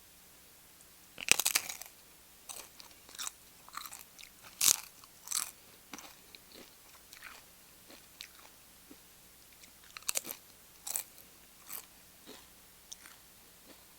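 Close-miked crunching of tortilla chips dipped in queso: a loud bite about a second in, then a run of sharp chewing crunches, and a second cluster of crunches near the end.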